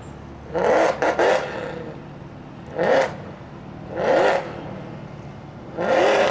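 Car engines revved in five short, loud blips, each rising sharply in pitch, over the steady sound of engines idling.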